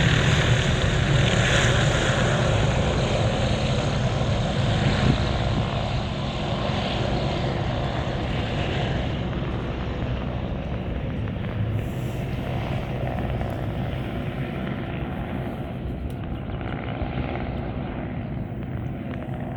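Helicopter's rotor and engine fading steadily as it flies away, growing duller as the higher sounds drop out.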